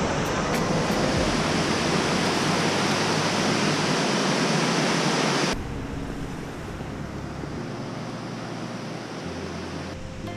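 A waterfall's steady rush of falling water. About five and a half seconds in it cuts off abruptly to a quieter, steady rush.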